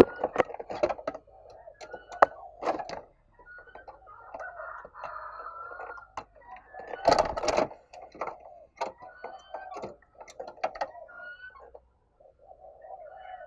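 Spotted dove cooing low and broken, mixed with many sharp clicks and taps; the loudest click comes about halfway through.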